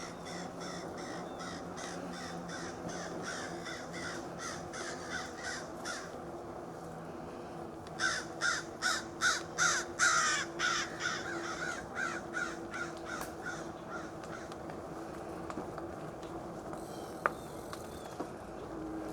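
A bird giving a long series of short, harsh repeated calls, faint at first and loudest from about eight seconds in, over a steady low hum.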